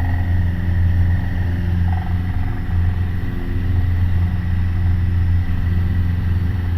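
Piper Warrior's four-cylinder Lycoming piston engine and propeller droning steadily at climb power, heard from inside the cabin.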